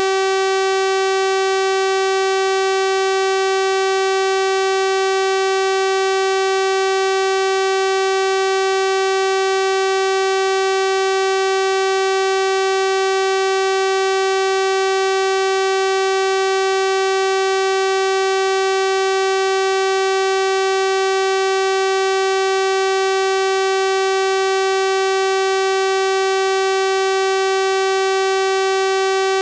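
Synthesized 384 Hz sawtooth-wave test tone, held steady at constant loudness with a bright, buzzy stack of overtones.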